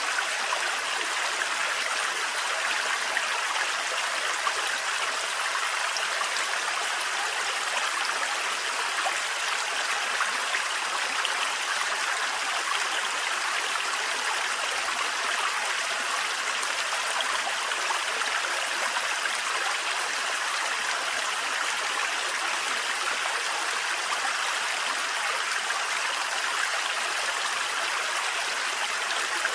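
Thin forest waterfall: water falling and running over rocks, a steady even rush with no let-up.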